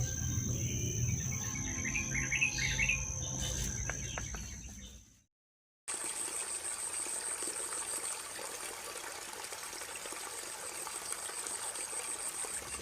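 Music fades out over the first few seconds and cuts to silence. After a brief gap, a steady high insect chirring follows with faint outdoor background noise.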